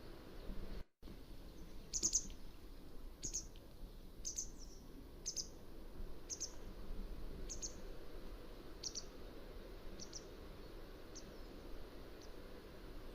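Mountain wagtail calling: a series of short, sharp, high-pitched notes about one a second, growing fainter toward the end, over steady low background noise. The audio drops out briefly about a second in.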